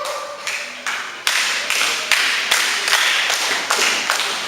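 Wrestling crowd clapping in unison, about three claps a second, starting about a second in after a brief shout.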